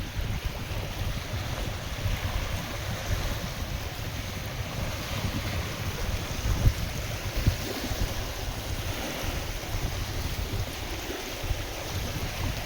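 Wind-driven waves washing on a lake, with wind buffeting the microphone in a low rumble and a couple of stronger gusts a little past the middle.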